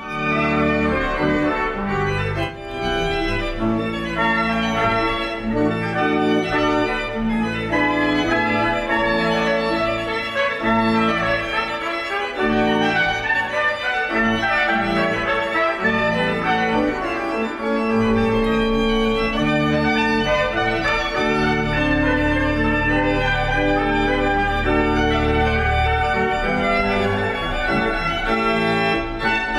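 Organ music playing slow, held chords, with a deep bass entering about two-thirds of the way through.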